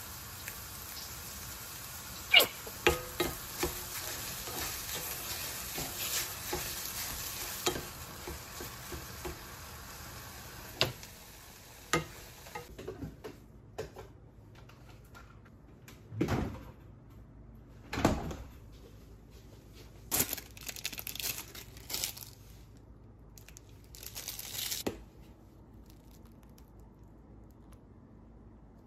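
Mushrooms sizzling in a frying pan as balsamic glaze is poured over them, with a few sharp clicks of a utensil against the pan. About halfway through, the sizzle stops and is followed by a few scraping and knocking sounds from toast being handled on a wooden cutting board.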